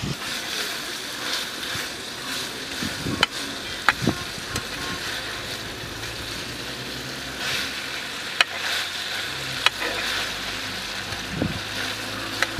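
Pepper chicken sizzling in a shallow iron pan as a metal spatula stirs it, with a few sharp clicks of the spatula against the pan.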